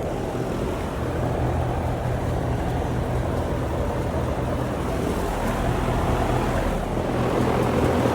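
Trane XR13 outdoor heat pump units running with a steady fan whoosh over a low electrical hum; on one unit the compressor is not running.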